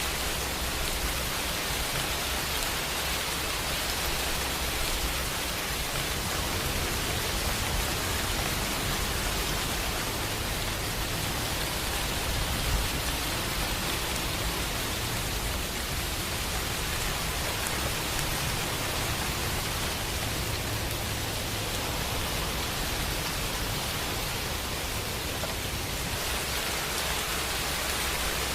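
Steady rain falling as an even hiss, with a low distant rumble of thunder swelling and fading underneath.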